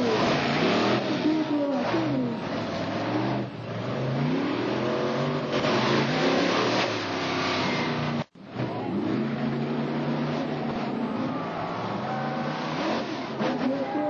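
Monster truck engine revving hard, its pitch climbing and falling again and again as the throttle is worked, with a brief cut-out about eight seconds in.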